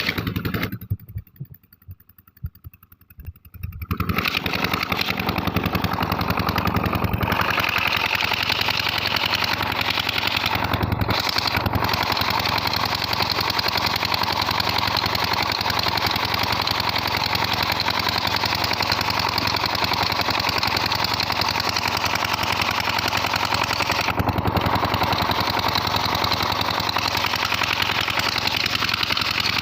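Petter 18 hp diesel engine running steadily with a fast, even beat. About a second in it drops away for roughly three seconds to a few scattered knocks, then comes back up and keeps running evenly.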